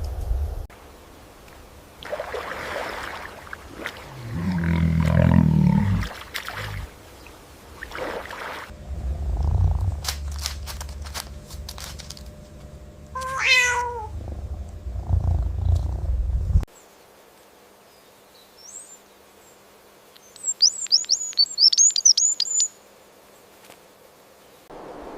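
A cat meows once, a single pitched call with a wavering pitch about halfway through, among low rumbling and scattered clicks. Near the end comes a quick run of high, thin chirps.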